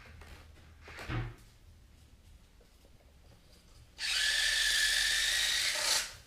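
Small electric motors and gearing of a radio-controlled Hobby Engine track loader whining at speed for about two seconds, starting and cutting off suddenly. A short dull thump comes about a second in.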